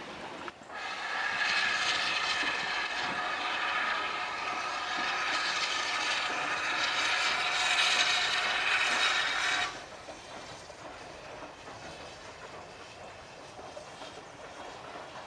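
Railway locomotive whistle sounding one long blast of several steady high tones for about nine seconds, starting and cutting off abruptly.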